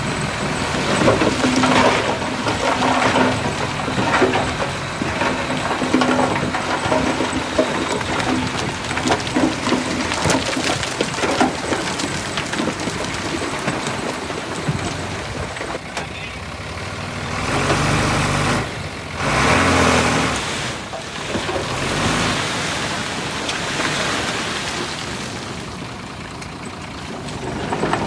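Heavy diesel earthmoving machinery running under load, a dump truck and bulldozer at work, with continuous clattering. The engine sound swells loudly twice about two-thirds of the way through.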